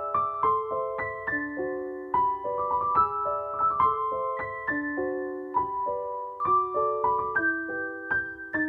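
Background piano music: a gentle melody of single notes and broken chords at a steady, unhurried pace, with the last note held and fading near the end.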